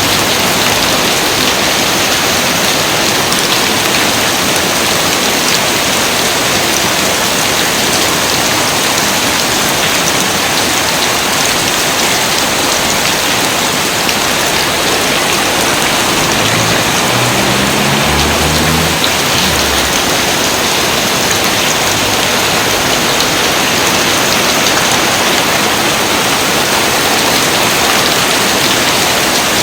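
Steady, even rain falling, a dense hiss with no let-up. About two-thirds of the way through, a brief low sound steps upward in pitch under the rain.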